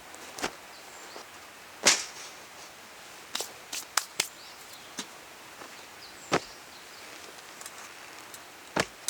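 About nine sharp, short knocks at irregular intervals, the loudest about two seconds in and a quick cluster around four seconds in, over quiet outdoor background.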